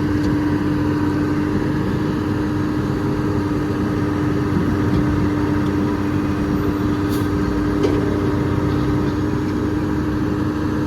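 Large engine of heavy recovery machinery running steadily at a constant speed, with a couple of faint clicks about two thirds of the way through.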